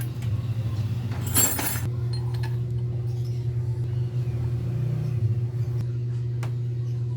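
Light metallic clinks and a brief scraping rush about a second in, from hand tools being worked on the motorcycle's front fork, over a steady low hum.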